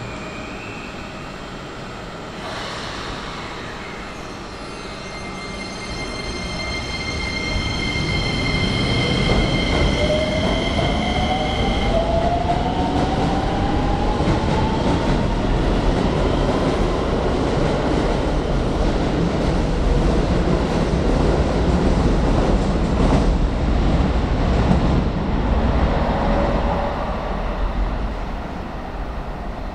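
Electric commuter train running through the station, its motor whine rising steadily in pitch as it picks up speed, over heavy wheel and rail rumble. A high steady squeal sounds in the first ten seconds or so, and the rumble fades near the end.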